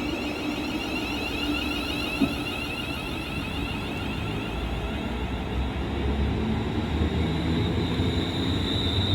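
Passenger train running, with a steady rumble that grows louder about halfway through and a faint high whine.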